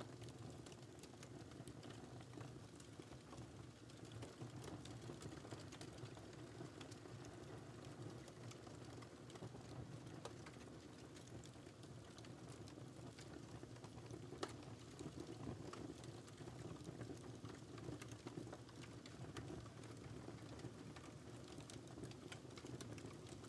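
Wood fire crackling quietly in a fireplace: many small, irregular pops and snaps over a low steady rumble of the burning fire, with one slightly louder pop about halfway through.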